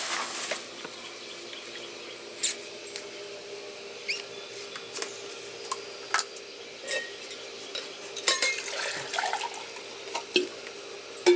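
Scattered clinks and knocks of a metal camp cooking pot and its parts being handled.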